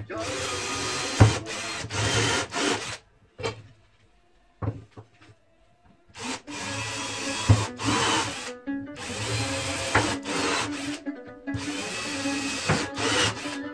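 A power tool working material in four bursts of about two seconds each, stopping and starting again between them.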